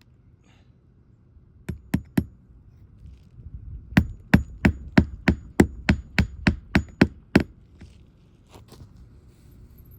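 Hammer driving a roofing nail through a shingle: three quick strikes, then a steady run of about a dozen blows, roughly three a second.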